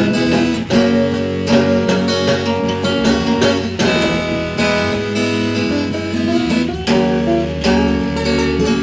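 Instrumental acoustic guitar music: chords strummed in a steady rhythm with sustained low notes underneath.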